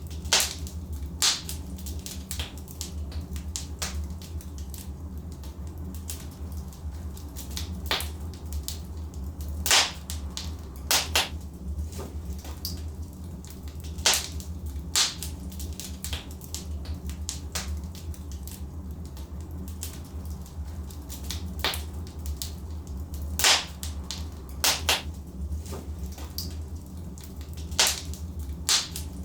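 Wood fire burning in a fireplace: a steady low rumble under irregular sharp crackles and pops from the burning logs, a few of them much louder than the rest.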